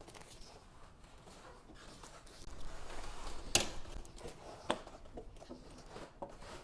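Letterpress printing by hand: rustling and handling noises with a few sharp knocks and clicks from the press, the two loudest about three and a half and four and a half seconds in.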